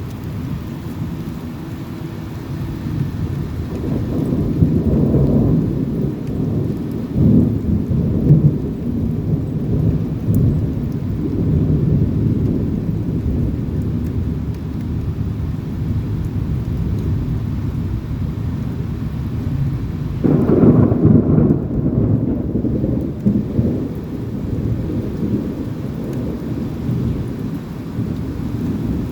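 Thunder rumbling and rolling over steady rain, swelling in waves, with a sharper, louder crack about twenty seconds in that rolls away.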